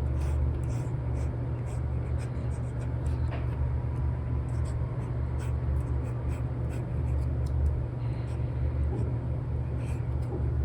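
Stylus nib scratching and tapping on an iPad's paper-like screen film in short, irregular strokes while drawing, over a steady low rumble.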